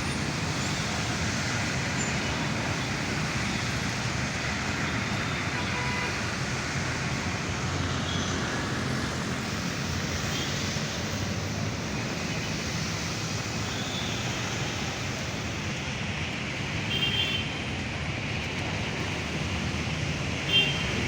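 Steady city traffic on wet roads, mixed with the hiss of monsoon rain. Two brief high-pitched beeps stand out, about three quarters of the way through and again near the end.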